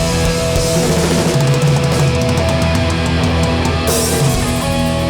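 Hardcore punk band playing live: distorted electric guitars, bass and drums, with quick cymbal strokes through the middle, no vocals.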